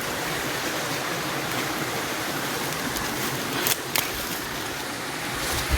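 Steady rush of flowing stream water, with two short sharp clicks a little over halfway through.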